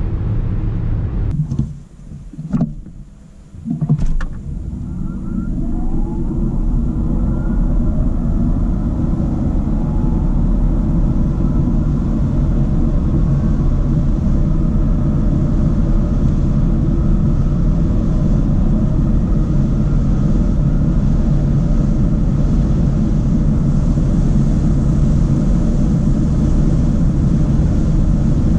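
Audi e-tron 55 quattro's dual electric motors whining under hard acceleration, the whine rising in pitch over steady tyre and wind noise. In the first few seconds the noise dips briefly, with two clicks, before the run begins.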